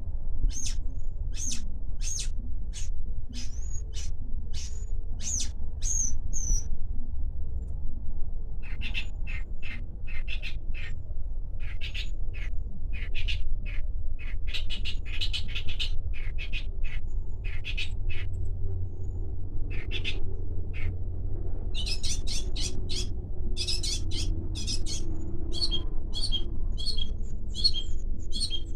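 Long-tailed shrike (cendet) singing actively: a run of short, sharp high calls, a pause of about two seconds, then denser chattering phrases and rapid repeated notes near the end, over a steady low rumble.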